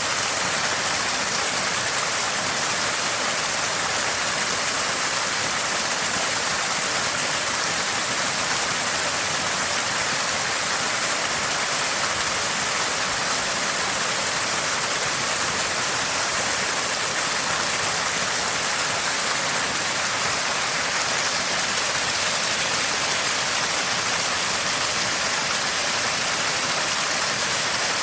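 Water spouting from a small spring, a constant gurgling and splashing that keeps up without a break.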